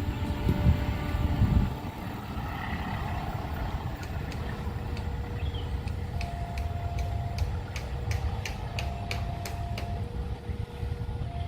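Steady low rumble of a train at a railway level crossing, loudest in the first second and a half. From about four seconds in, a warning signal sounds in two alternating tones, with evenly repeated sharp ticks.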